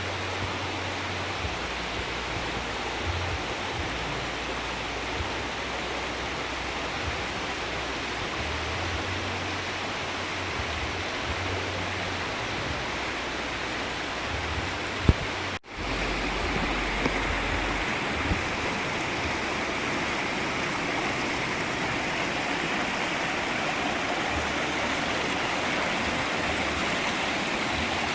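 Waterfall stream rushing over rocks, a steady even rush of water. It drops out briefly about halfway through, then carries on slightly louder and brighter.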